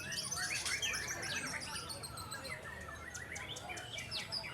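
Several caged white-rumped shamas (murai batu) singing at once in competition: a dense, overlapping tangle of loud whistles, rapid chirps and trills.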